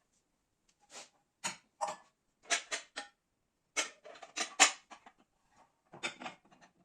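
A string of short clinks, knocks and scrapes from objects being handled and set down, about a dozen in irregular succession, the loudest a little past halfway.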